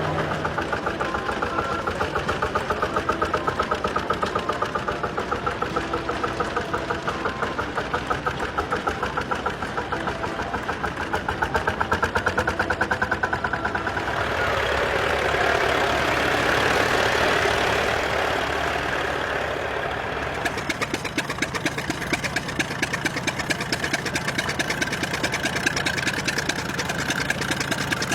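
Tractor engine running with a steady, rhythmic firing beat. The sound smooths out through the middle, and from about twenty seconds in the separate firing beats come through sharper.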